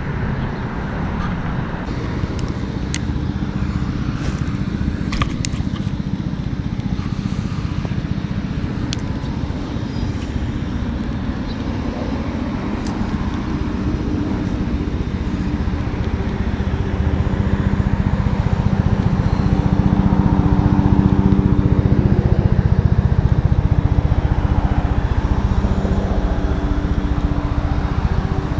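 A steady low rumble, with an engine's drone growing louder from about halfway through.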